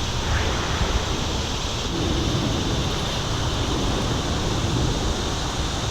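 Steady wind noise buffeting the microphone, a rushing hiss with no distinct strokes, starting abruptly.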